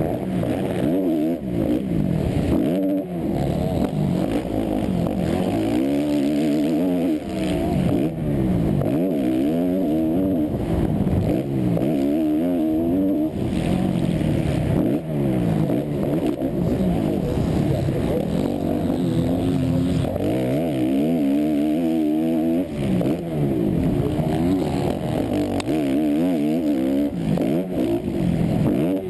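Motocross bike engine heard from on board at race pace. Its pitch climbs and falls over and over as the throttle is opened and shut through corners and jumps, with a few brief drops when the throttle is chopped.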